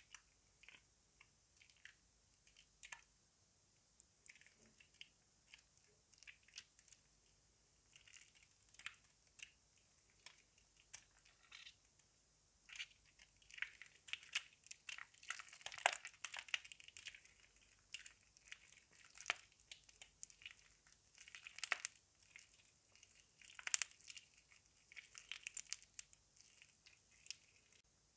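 Soaked, softened laundry soap being squeezed and crushed by hand: faint wet crackling and squishing, sparse at first and growing much busier about halfway through.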